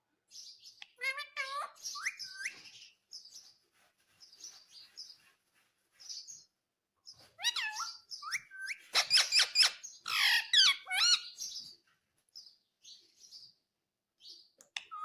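Indian ringneck parrot giving chirps and squawky calls in bursts, with the loudest, fastest run of calls in the middle and calls starting again right at the end.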